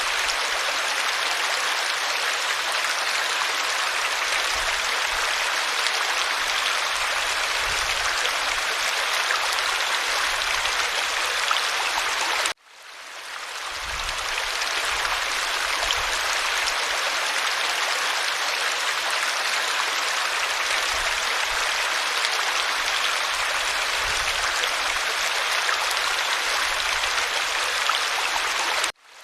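Steady running water of a creek. It drops out abruptly about halfway through and again near the end, fading back in each time, as at the joins of a looped recording.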